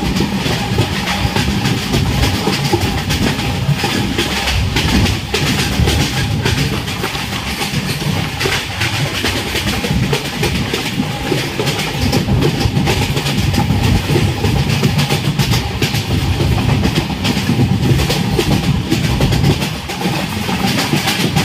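Passenger train running at speed, heard from inside a coach: a steady low rumble of wheels on the rails with a continuous clatter of small clicks and rattles.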